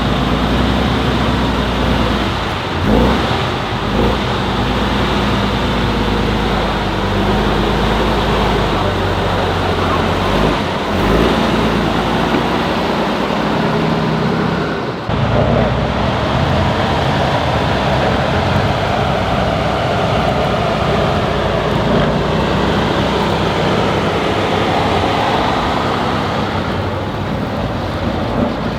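Heavy off-road competition truck's diesel engine running under load, rising and falling as it works through the course. The sound shifts abruptly about halfway through.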